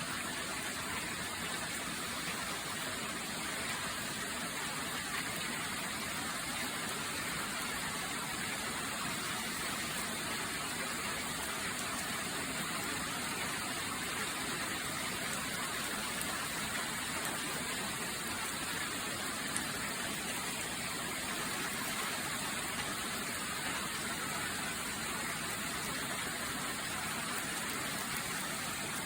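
Heavy storm rain pouring down, a steady, even rush with no let-up.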